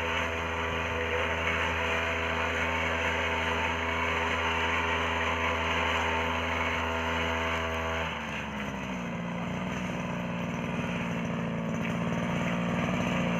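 Small petrol engine of a wheel hoe running steadily. About two-thirds of the way in its note changes abruptly and dips, then the engine gradually grows louder as it speeds up.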